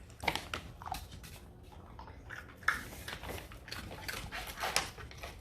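A dog crunching and chewing a hard dog biscuit, a run of irregular crisp crunches.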